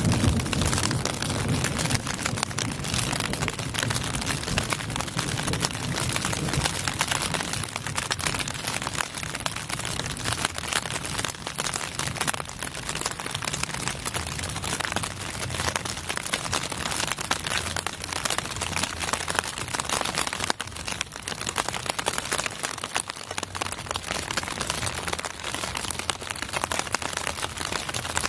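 Steady rain with dense, fine drop hits, close to the microphone. A low rumble in the first few seconds fades away.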